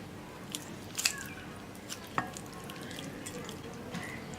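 Raw chicken leg being cut off the bone: a few sharp clicks and soft wet handling sounds, the loudest click about a second in.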